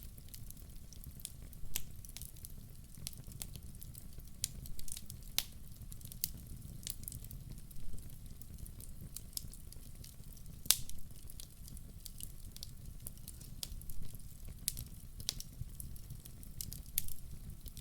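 Wood fire crackling: irregular sharp pops and snaps over a steady low rumble, with one louder pop a little past the middle.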